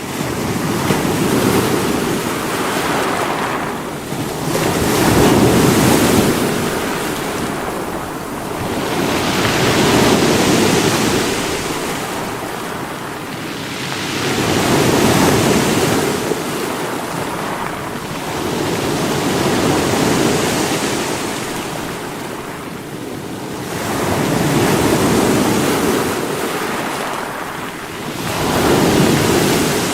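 Sea waves breaking against rocks: a continuous rush of surf that swells and eases, with a surge about every four to five seconds.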